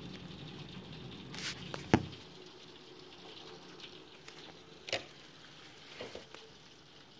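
Heavy rain pattering steadily against the window during a severe thunderstorm. A few sharp knocks cut through it, the loudest about two seconds in and others about five and six seconds in.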